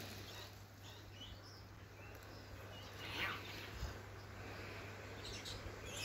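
A few faint, short bird chirps scattered over quiet outdoor background noise, with a steady low hum underneath.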